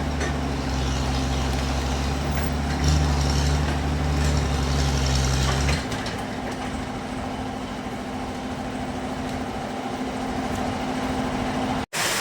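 Sawmill machinery running with a steady hum. A deeper, louder engine-like drone stops about six seconds in, and the sound cuts out abruptly near the end.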